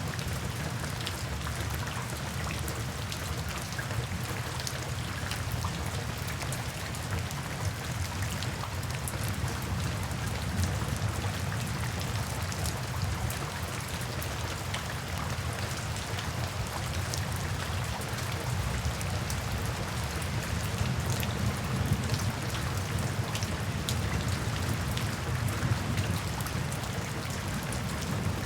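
Steady rain falling, with a low rumble underneath and many small sharp pops and crackles scattered through it, as from a crackling fireplace.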